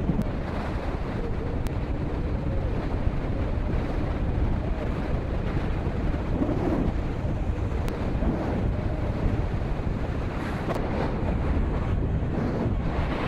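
Steady wind buffeting on the microphone of a moving motorcycle, with the KTM Duke 200's single-cylinder engine running faintly underneath.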